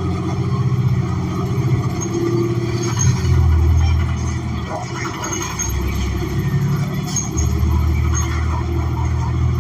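New Flyer XN40 city bus's Cummins Westport ISL G natural-gas engine running under way, heard from inside the passenger cabin, a steady low drone whose pitch shifts a few times.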